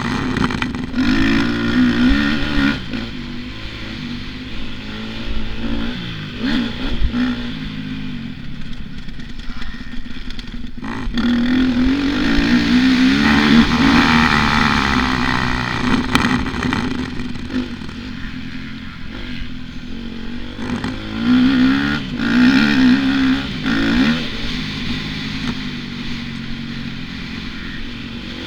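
Motocross motorcycle engine ridden hard, its revs rising and falling again and again with the throttle, with louder surges of acceleration at the start, near the middle and past two-thirds of the way through.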